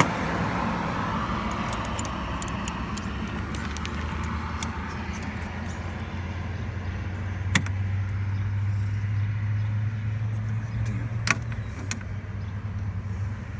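Sharp metallic clicks and clinks from hand work on radiator hose clamps under the hood, over a steady low vehicle engine hum that strengthens about halfway through.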